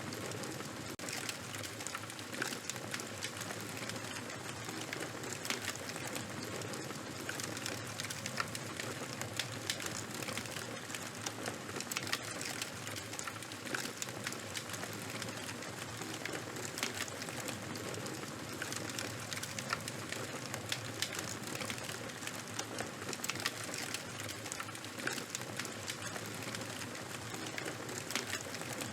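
Burning charcoal and wood fire crackling steadily, a constant hiss with many small sharp pops at irregular moments.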